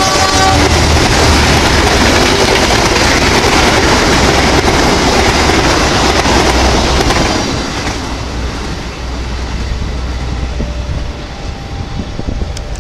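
Passenger coaches rushing past at speed, a loud steady rumble of wheels on the rails that drops away about two-thirds of the way through as the last coach passes. Near the end, a distant train horn sounds faintly on two held notes.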